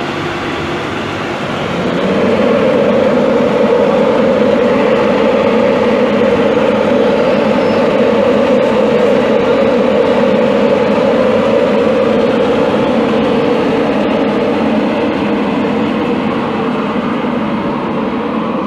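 A train running past close by: a loud, steady rushing noise of wheels on rail that builds over the first two seconds and then holds.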